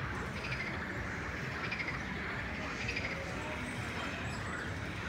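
Birds chirping over steady outdoor background noise, faint arching calls recurring every second or so.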